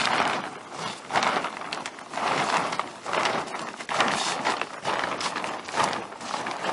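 Footsteps on a flattened plastic AquaDam tube, about one step a second, each with a rustle of the sheeting, as people walk the air out of the dam.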